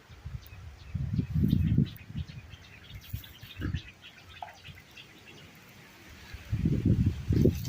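Strong wind gusting across the microphone in low, irregular rumbles, loudest twice, with small birds chirping faintly in between.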